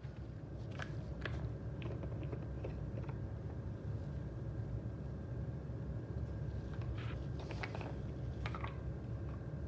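Scattered light clicks and taps of the parts of a portable hand-pump espresso maker being handled and taken apart, over a low steady hum.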